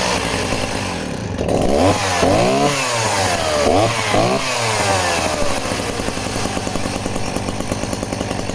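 Two-stroke chainsaw engine revved in several quick throttle blips, pitch rising and falling, from about two to four and a half seconds in, then held running fairly steadily.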